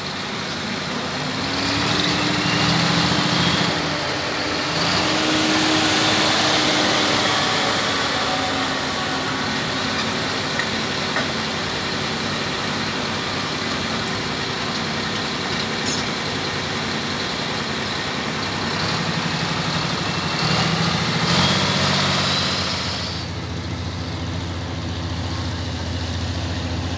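Super stock pulling tractor's engine running hard under load, a dense roar with a slowly shifting engine tone. It swells louder in the first several seconds and again about three-quarters of the way through.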